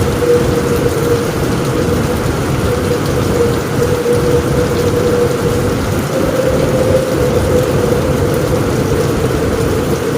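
Heavy rain falling steadily on a roof, a dense, even hiss and patter with no let-up, with a thin steady tone running underneath it.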